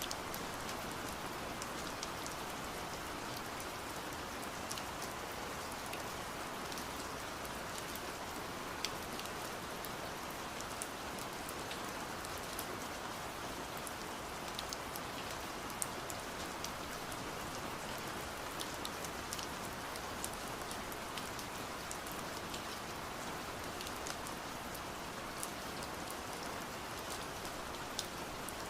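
Steady rain with many scattered sharp drop taps on window glass.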